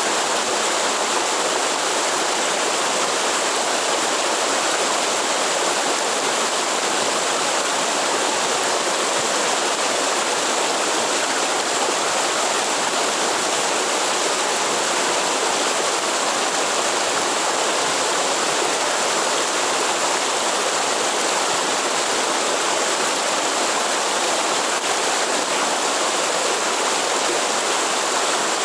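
Waterfall in the Atlantic Forest: a steady rush of falling water that runs on unchanged.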